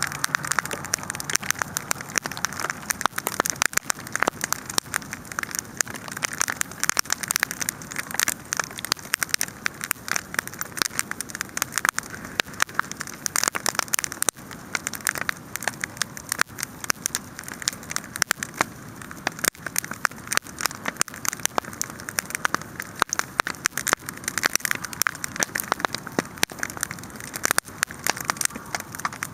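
Wood campfire crackling, a dense, constant stream of snaps and pops.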